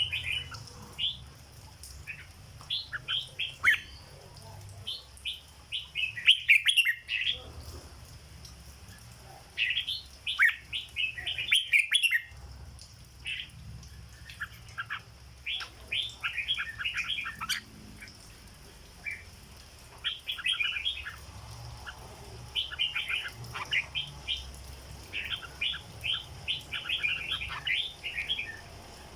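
Red-whiskered bulbul singing: repeated short phrases of quick, bubbly notes, each phrase a second or two long with brief pauses between.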